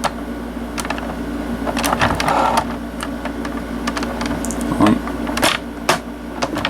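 Hard plastic clicks and rattles from a toy truck being handled, with a piece pulled off and its hinged body opened. There are several separate clicks over a steady low hum.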